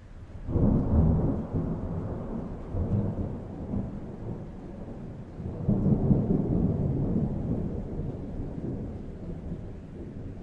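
A thunderclap breaks suddenly about half a second in and rolls into a low rumble. The rumble swells again midway, then slowly dies away.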